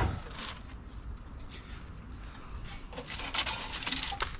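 Sheet steel being scraped and rubbed, with scattered light clicks, the scraping thicker about three seconds in: the car's rusty inner-wing metal being worked loose and handled.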